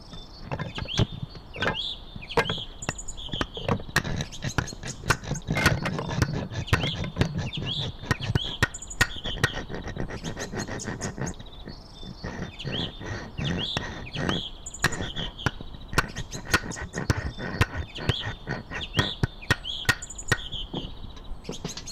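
Birds chirping, short calls repeated over and over, with many sharp clicks and knocks scattered throughout.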